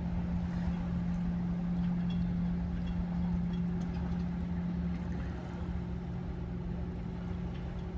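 A boat's motor running steadily, a constant low hum over a rumble.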